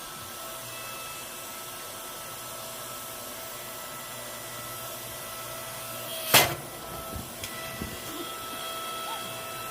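A motor-driven machine running steadily with a thin whine, and a single loud knock about six seconds in, followed by a few lighter clicks.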